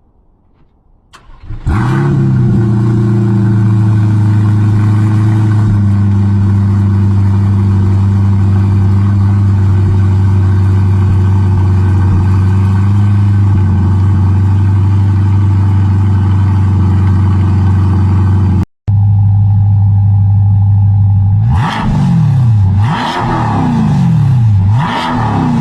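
Chevrolet C8 Corvette Stingray's 6.2-litre LT2 V8 through an aftermarket titanium exhaust. It starts up about two seconds in and idles steadily and loudly. After a brief gap, it is revved three times near the end, each rev rising and falling in pitch.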